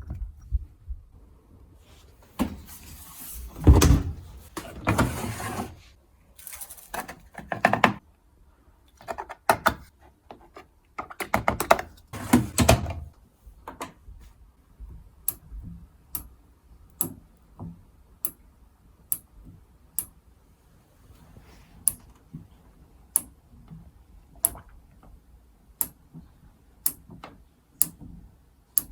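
Haier front-loading washing machine at the start of its cotton programme: a run of irregular knocks and rattles, then sharp clicks about once a second from halfway through.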